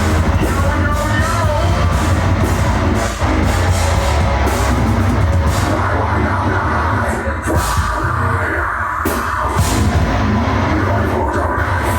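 Deathcore/metalcore band playing heavy music: distorted guitars and bass with a strong low end under drums, with repeated cymbal hits throughout.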